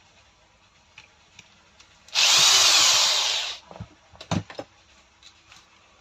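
An electric power tool motor runs briefly for about a second and a half, its whine rising and then falling, followed by a few sharp knocks.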